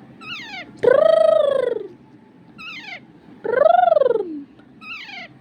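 Green parrot calling: two long, loud calls that rise and then fall in pitch, between short high whistles that drop in pitch.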